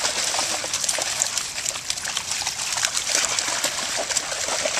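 Dogs splashing about in a shallow river, with many short splashes over the steady rush of running water.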